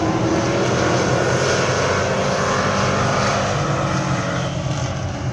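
Race truck engines running at racing speed, a steady mixed engine noise of several trucks on the track that eases slightly near the end.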